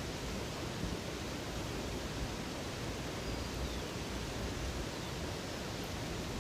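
Steady rush of flowing water, a continuous even noise with a deep low rumble.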